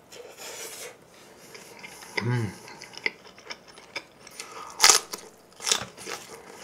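Close-miked mouth sounds of a person biting into and chewing a burger: a soft bite in the first second, then wet chewing with sharp clicks and smacks, and a brief hum from the eater about two seconds in.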